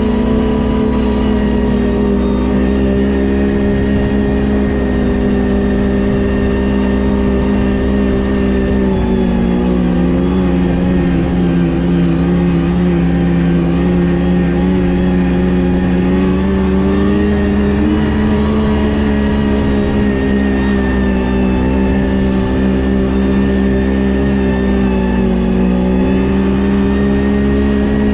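Ski-Doo GSX 600 HO snowmobile's two-stroke twin engine running steadily at trail speed. Its pitch drops slightly about nine seconds in, climbs back a little later on, and dips briefly once more near the end as the throttle eases and opens.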